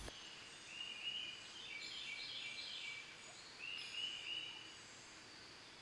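Faint background birdsong: a series of short, high chirps and trills, going quiet near the end.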